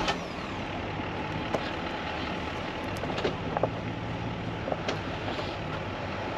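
Tow vehicle's engine idling steadily as a low hum, with a few light clicks and knocks through it.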